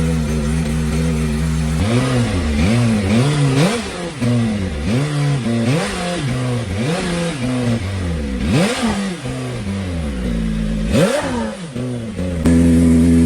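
BMW M1000RR Competition's inline-four engine, fitted with an aftermarket short muffler, idling and then blipped repeatedly: about eight quick revs rising and falling in pitch from about two seconds in, the highest near the end. It then settles back to a steady idle that is suddenly louder.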